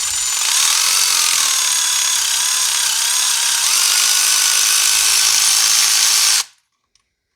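Electric ratchet running steadily as it spins a spark plug out of the cylinder head of a BMW N55 inline-six, its whir wavering slightly in pitch, then stopping about six and a half seconds in as the plug comes free.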